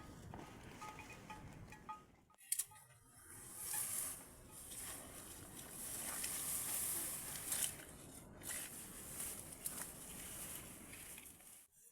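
Rain falling, a steady hiss that swells and fades, with scattered light ticks of drops. It cuts out briefly about two seconds in.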